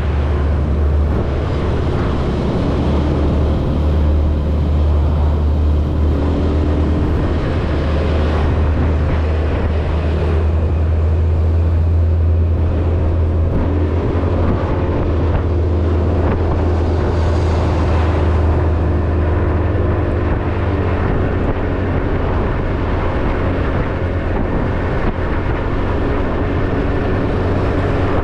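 Motorbike engine running steadily while riding, with road and wind noise and a strong, steady low hum.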